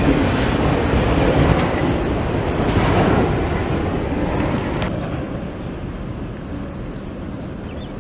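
Union Pacific train rolling past on the rails, its wheels clattering over the track, the sound fading steadily as the train moves away.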